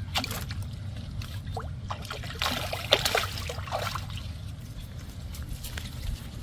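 Water trickling and splashing in small irregular splashes and drips, busiest in the middle, over a steady low rumble.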